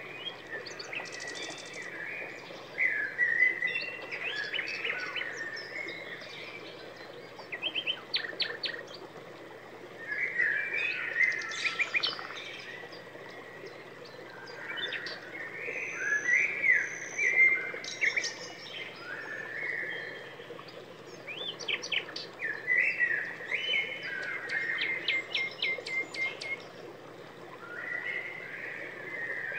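A small songbird singing: bursts of quick chirps, trills and rising-and-falling whistled notes, phrase after phrase with short pauses between.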